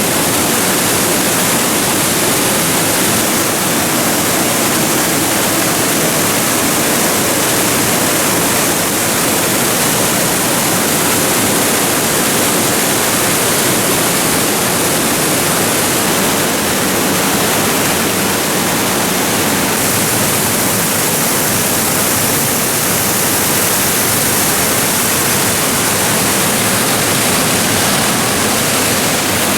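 Raitaki waterfall falling: a loud, steady, unbroken rush of water that does not change.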